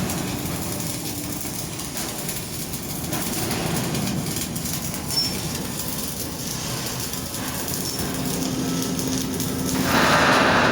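Stacked shipping containers on a cargo ship working against each other and their lashings as the vessel moves in a rough sea: a steady, noisy metallic sound with one sharp knock about halfway through. It grows louder just before the end.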